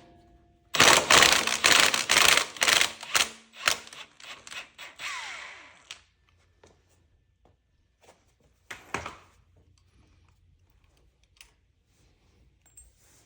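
Impact wrench with a 13/16 socket hammering on the engine's crankshaft nut for about five seconds, breaking it loose, then its motor winding down. One more short burst of noise comes about nine seconds in.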